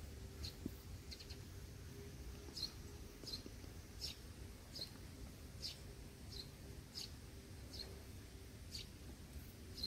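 A bird chirping: short, high chirps repeated about every two-thirds of a second, over a faint low steady hum.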